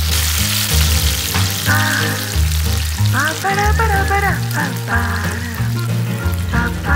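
Chopped tomatoes and capsicum sizzling in hot oil in a pan, a steady hiss that is strongest in the first second or so, under background music with a bass line and melody.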